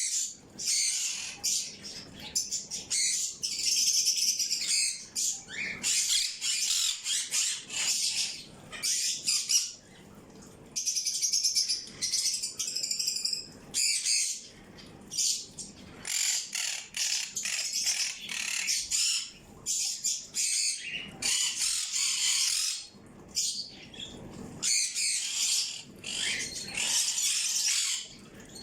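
Small birds chirping and twittering in quick, high bursts with brief pauses between them.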